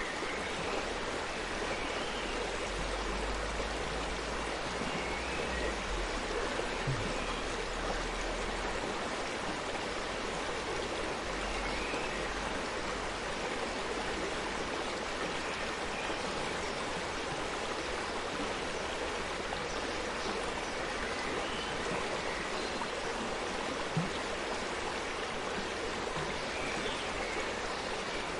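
Forest stream flowing, a steady rush and babble of running water.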